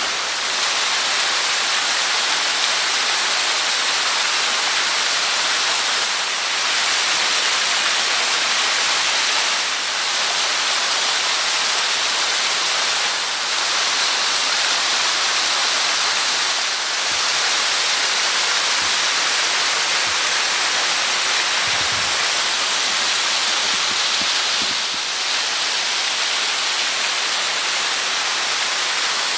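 Steady, loud rush of water from a small waterfall and its mountain stream.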